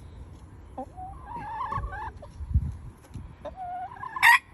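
Chickens clucking and calling, a run of short pitched calls about a second in and more near the end, the last one loud and sudden. A couple of dull low thumps sit between them.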